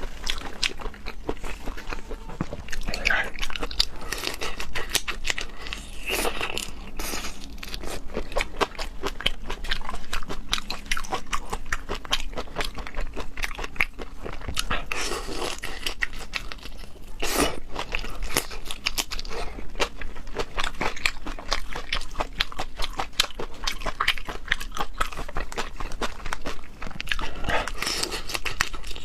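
A person biting and chewing food close to the microphone, with dense, quick crunching clicks throughout.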